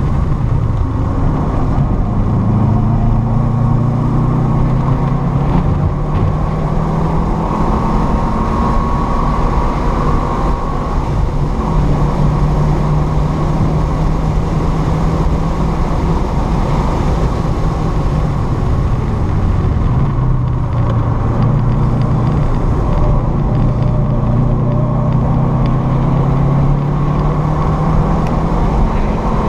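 Car engine heard from inside the cabin, pulling hard at high revs on a race-track lap. Its pitch dips and climbs back several times over steady road and tyre noise.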